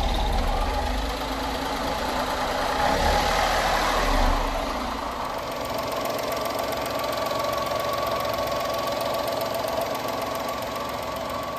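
A 2000 Honda Acty mini truck's small three-cylinder engine running steadily, a bit louder in the first few seconds and then settling to an even drone.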